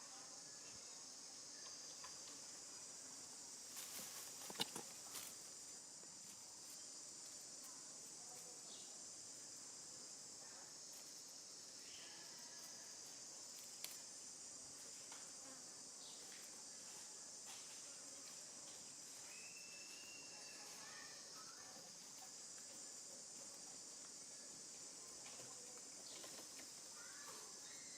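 Steady high-pitched chorus of insects, with a few faint sharp clicks about four to five seconds in and a brief faint tone around twenty seconds in.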